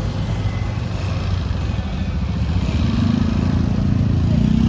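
Motorbike engine running under way, as heard from the rider's seat, its note growing louder about three seconds in.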